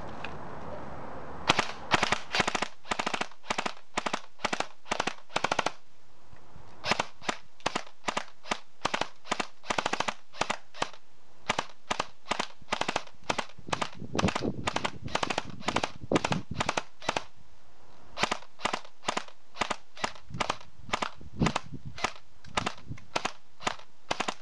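Airsoft M4 electric rifle firing in long strings of sharp shots, about three a second, with two short pauses.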